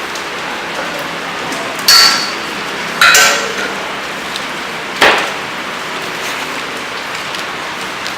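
Steady rain-like hiss, broken by three loud sharp clanging knocks about two, three and five seconds in, each with a brief metallic ring.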